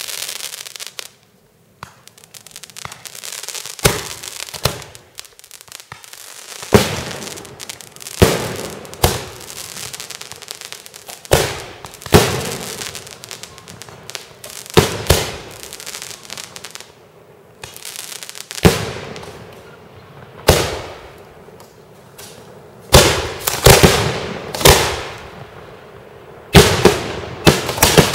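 Professional aerial fireworks display: shell bursts going off every second or two, sometimes in quick clusters of two or three, each bang trailing off in a long echo.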